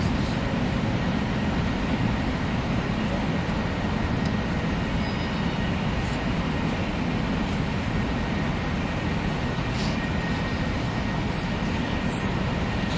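Running noise heard inside a 300 Series Shinkansen car moving steadily along the line: an even, low rumble of wheels and track, with a faint steady high tone above it.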